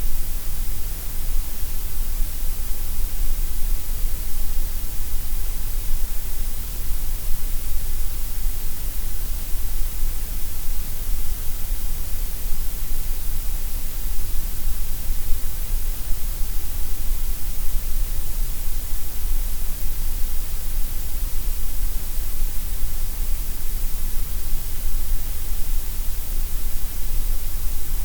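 Steady synthetic gray noise: an even, unchanging hiss spread across the whole range from deep to high, with no pitch and no events.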